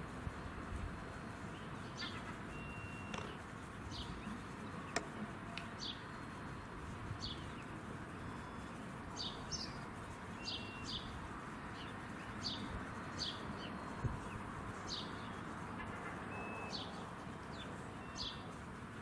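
Small birds chirping outdoors, short sharp calls repeated irregularly about once a second, with a few brief thin whistles, over steady background noise. Two sharp clicks stand out, about five seconds in and near fourteen seconds.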